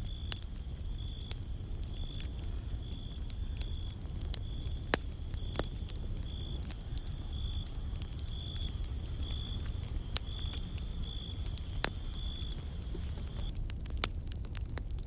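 Wood fire in a fireplace crackling, with scattered sharp pops over a steady low rumble. A high chirp repeats every half second or so and stops near the end.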